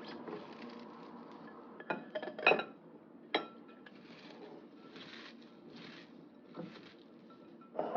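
Dishes and utensils clinking and knocking as they are handled. There is a quick cluster of clinks about two seconds in, a single sharp clink a moment later, then softer handling noises and a last knock near the end.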